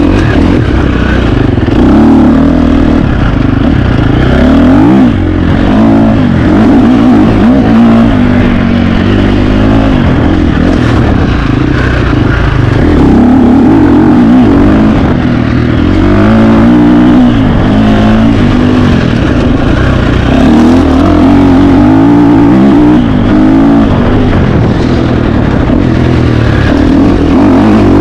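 2025 KTM 350 XC-F's four-stroke single-cylinder dirt bike engine, revving up and down continuously as it is ridden hard, the pitch climbing and dropping every second or two.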